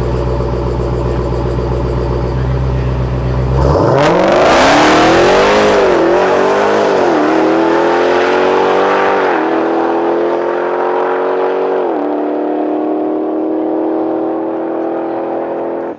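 Dodge Challenger SRT Demon's supercharged 6.2-litre Hemi V8 running with a deep steady rumble, then launching hard about four seconds in on a drag-strip pass. The engine note climbs and drops back at each upshift, four times, then holds steady near the end.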